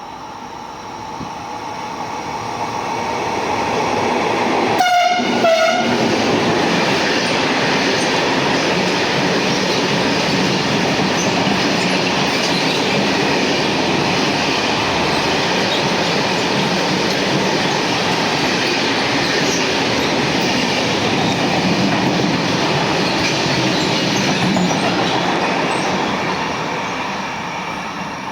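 A train passing at speed, sounding two short horn blasts about five seconds in, then a long steady rush of wheels on the rails that fades near the end.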